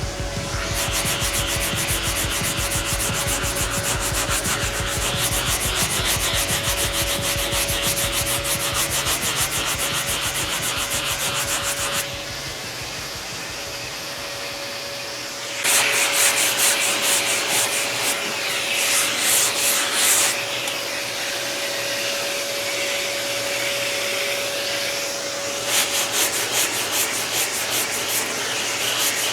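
Sandpaper on a sanding block rubbed back and forth over body filler on a car fender, in quick, rhythmic strokes. It goes quieter for a few seconds near the middle, then comes back louder. A faint steady hum runs underneath.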